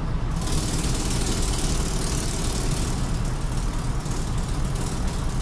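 Mercedes truck diesel engine idling steadily, with a loud steady hiss joining about half a second in. The engine is being checked for a faulty cylinder injector.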